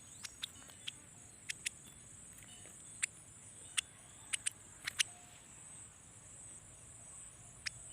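Insects chirring steadily at a high pitch, with about a dozen short, sharp clicks scattered irregularly through it.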